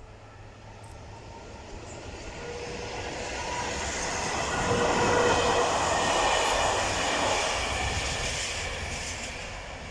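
Train passing over a level crossing: it grows louder to a peak about halfway through, then fades. A few steady tones ride over the rumble and wheel noise.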